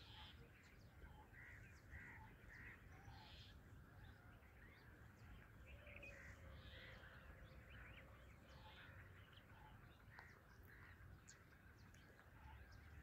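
Faint, scattered calls and chirps of several birds over a low rumble.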